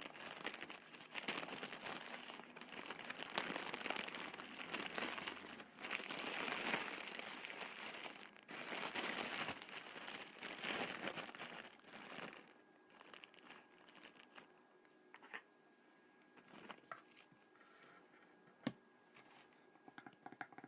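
Kinetic sand being handled close to the microphone: a dense, crackly crumbling for about twelve seconds, then quieter, with scattered small clicks.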